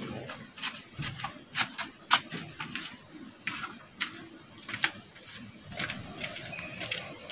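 Small birds chirping outdoors: short, sharp, irregular chirps, the loudest about two seconds in, over a low background rumble.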